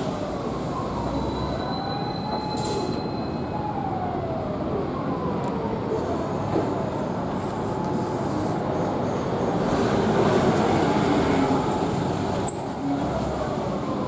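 Isuzu Erga Hybrid bus running at low speed, its electric drive whine gliding up and down in pitch over the running noise. A short high squeal comes near the end.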